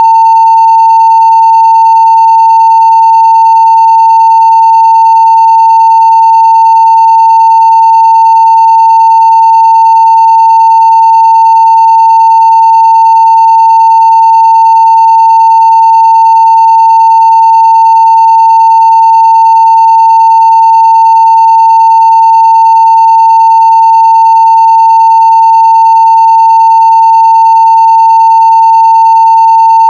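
Steady 900 Hz sine-wave test tone at full scale (0 dB), one loud, unbroken pitch.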